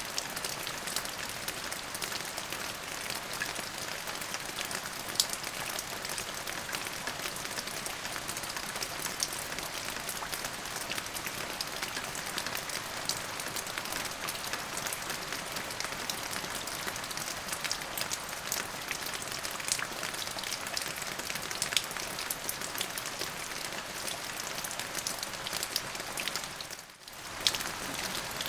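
Steady rain falling, an even hiss dotted with many separate drop ticks; it dips out briefly near the end.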